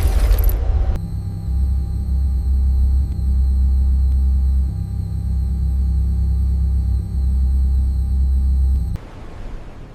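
A loud rush of noise cuts off about a second in, giving way to a deep, steady machine hum with thin, high steady tones above it. The hum dips briefly twice and drops away near the end.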